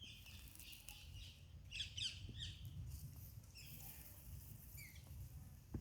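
Birds calling: a scatter of short chirps and quick falling notes, thickest about two seconds in and again near the end, over a low steady rumble.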